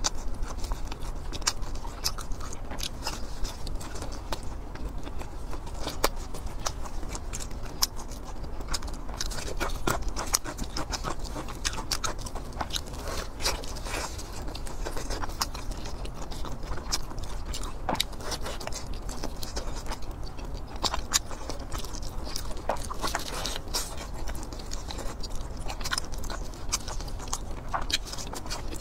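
Close-miked eating: a person biting and chewing soft food, with many short wet mouth clicks and smacks throughout.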